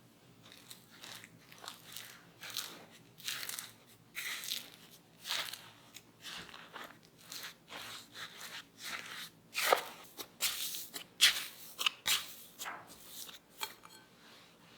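A series of crunchy, squishing strokes, roughly one or two a second and louder in the second half: potatoes being worked by hand with a utensil, as in mashing boiled potatoes and mixing them with corn starch.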